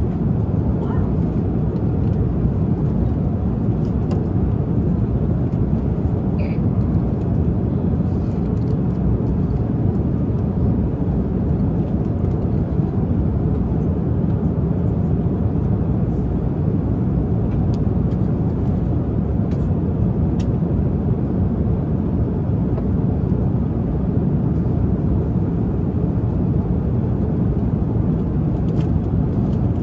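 Steady low rumble of an airliner cabin in flight, even throughout, with a few faint clicks.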